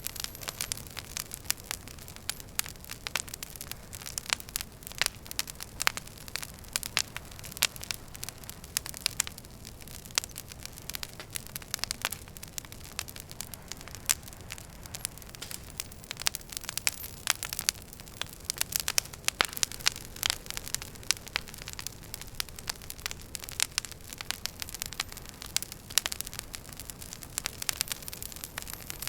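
Wood fire crackling in a fireplace: many irregular sharp pops and snaps over a steady soft hiss.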